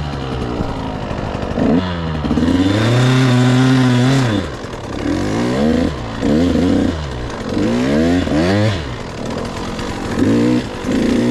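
Husqvarna TC 85 two-stroke dirt bike engine being ridden, its revs climbing and dropping over and over. There is a long held rev about three seconds in, then a run of quick climbs and falls through the middle, and short blips near the end.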